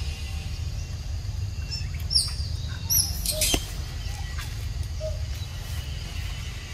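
A few short, high, downward-sliding bird chirps about two to three seconds in, and a sharp click soon after, over a steady low rumble.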